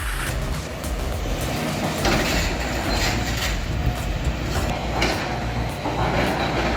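A heavy construction machine's diesel engine running under load, with a few sharp metallic knocks and clanks.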